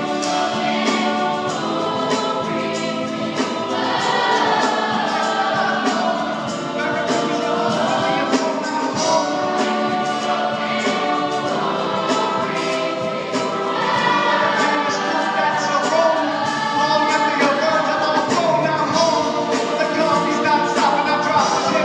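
A stage-musical ensemble of many voices singing together over band accompaniment with a steady beat.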